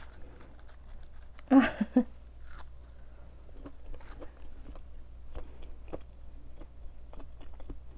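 Close-up chewing of crispy breaded plant-based nuggets (KFC Beyond Fried Chicken): wet mouth sounds with small irregular crunches and clicks. A brief vocal sound from the eater about one and a half seconds in.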